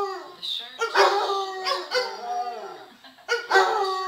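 Basset hound howling: long drawn-out howls that fall in pitch, one about a second in and another starting near the end.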